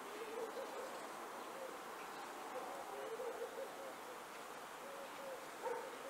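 Low hooting calls from a bird in the background: short repeated notes in several bouts, over a faint steady hiss of forest ambience.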